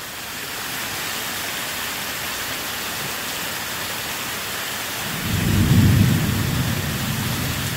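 Heavy tropical-storm rain falling steadily, with a low roll of thunder swelling about five seconds in and fading over the next two seconds.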